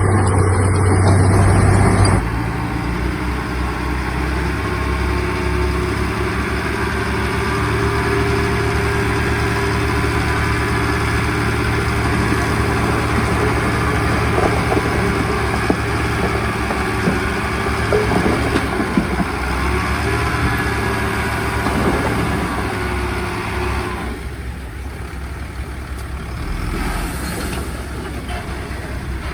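Heavy diesel engine of earthmoving machinery running steadily, dropping suddenly in level about two seconds in and again near the end.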